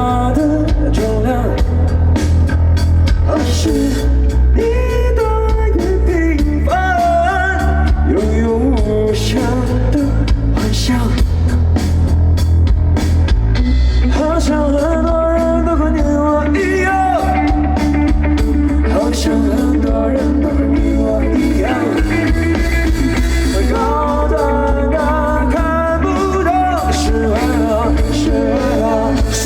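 A live pop-rock band playing with a sung vocal melody over guitar, strong bass and drums.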